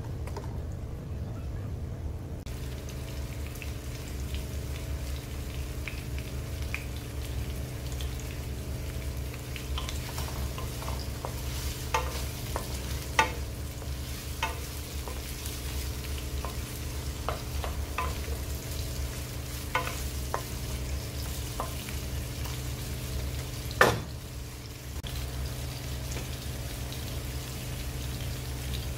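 Carrot and potato chunks sizzling in hot oil in a wok, being half-cooked before the adobo. A wooden spatula stirs them and knocks against the pan every so often, with one sharper knock late on.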